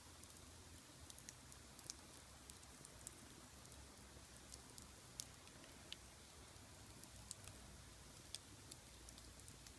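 Wood fire burning in a large iron pot, crackling faintly with scattered sharp pops at irregular intervals.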